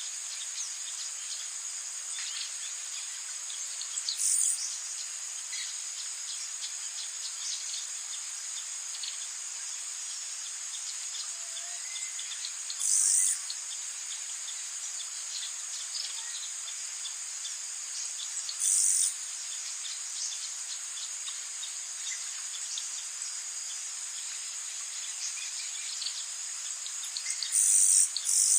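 Rainforest insect chorus: a steady high-pitched trilling drone, swelling into louder bursts about four times, each lasting around a second, with faint scattered bird chirps underneath.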